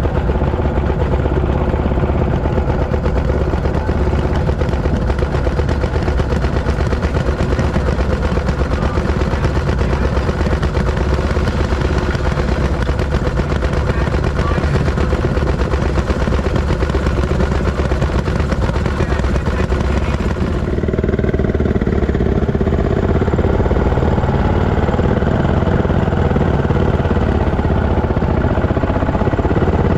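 Fairmont M19 railroad speeder under way: its single-cylinder two-stroke engine runs with rapid, steady exhaust popping over rail clatter. About two-thirds of the way through, the sound turns duller and slightly louder.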